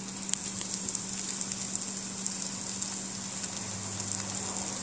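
Jennie-O turkey burger patty frying in oil in a nonstick skillet on medium heat: a steady sizzle with many small crackles and pops, over a faint steady low hum.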